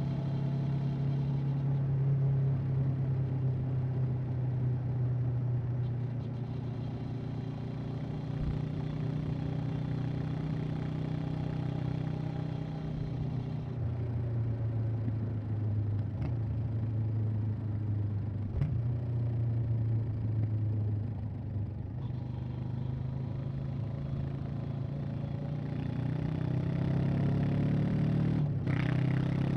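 Honda CB500X's parallel-twin engine running on the move. The note holds fairly steady, sags a little around the middle, then climbs over the last few seconds, with a brief dip just before the end.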